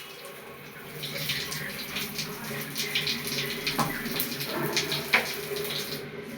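Water running steadily, as from a tap, building up about a second in, with a few light knocks and clicks over it.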